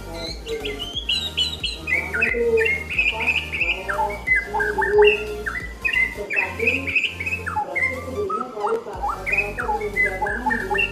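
White-rumped shama (murai batu) singing a fast, varied song of rising and falling whistles and chirps, over background music with a steady low bass.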